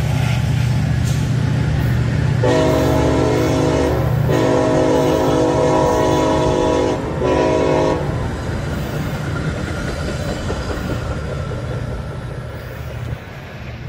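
Metra commuter train departing: a steady low rumble of the diesel locomotive and the bilevel cars rolling on the rails, with the locomotive's horn sounding two long blasts and then a short one, starting about two and a half seconds in. The rumble fades near the end as the train pulls away.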